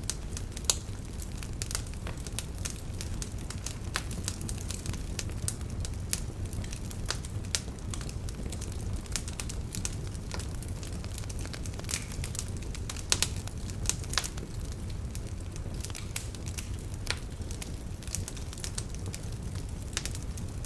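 Wood fire burning in a fireplace: a steady low rumble of flame with irregular crackles and sharp pops from the logs, a few louder snaps among them.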